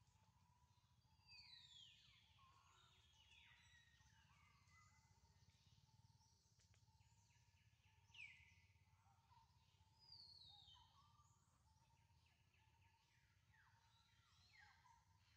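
Very faint outdoor ambience: birds give a few short high calls that fall in pitch, the sharpest about eight seconds in, over a low steady rumble.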